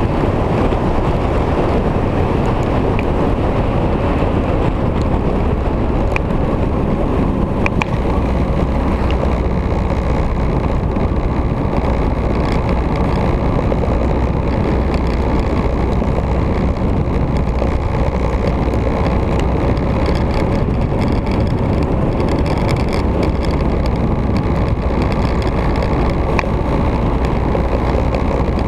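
Victory V-twin motorcycle riding at a steady road speed: a constant engine drone mixed with rushing wind noise, unchanging throughout.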